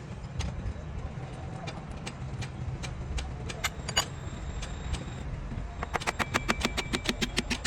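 Engine-workshop noise: a steady low rumble under scattered sharp metallic clicks and taps, with a quick run of about ten clicks a second near the end.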